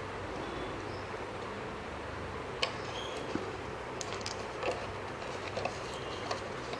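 Soft, scattered clicks and taps of small plastic craft pieces and a plastic bottle being handled, over a steady background hum.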